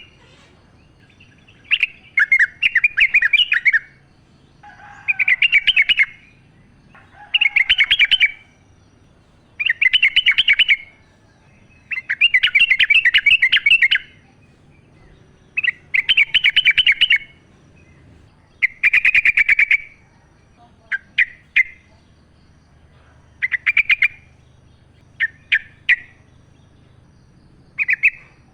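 Yellow-vented bulbul singing: a run of short, rapid-note song phrases, about one every two seconds, growing shorter and choppier in the last third.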